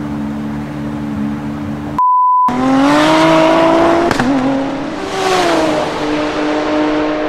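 Dubbed car engine sound effect idling steadily, cut by a half-second electronic beep about two seconds in, then revving up with a rising note that falls back near the middle and settles into a steady drone.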